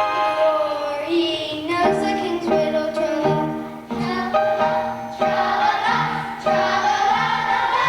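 A choir singing a song from a stage musical, with instrumental accompaniment and a steady bass line moving under the melody.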